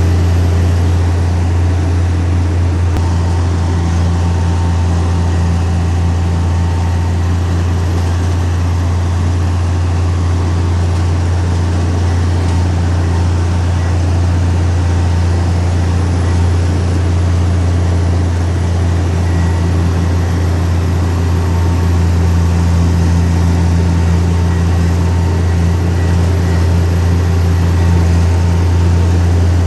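Heavy diesel engine of earth-moving machinery running steadily under constant load, a loud, even low drone with no change in pitch.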